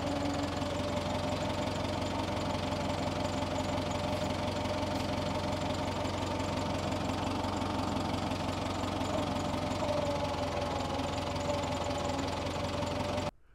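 Tiger Tractor's engine running steadily at low revs. The sound cuts off suddenly near the end.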